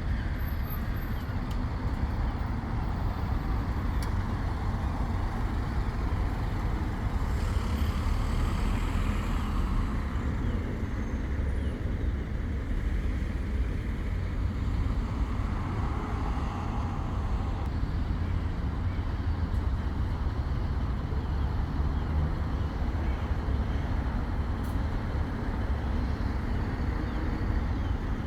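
Road traffic: a steady low rumble of vehicles, with louder swells as vehicles pass about eight seconds in and again around sixteen seconds.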